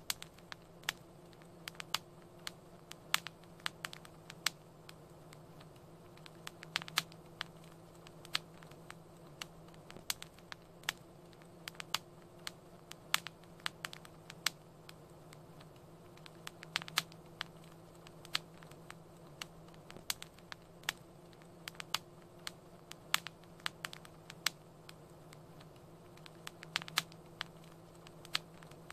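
Wood fire crackling in a fireplace: irregular sharp pops and snaps, several a second at times, over a steady low hum and faint hiss.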